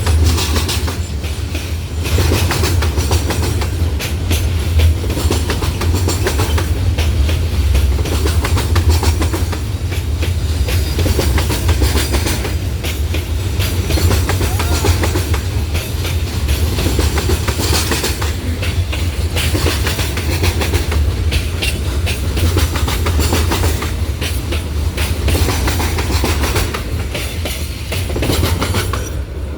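Loaded freight train rolling past: a steady low rumble with repeated wheel clatter over the rails.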